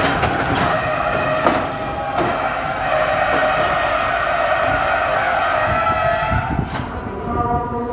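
Local passenger train running on the rails: a steady rumble with a few sharp clacks in the first couple of seconds and a steady whine over it.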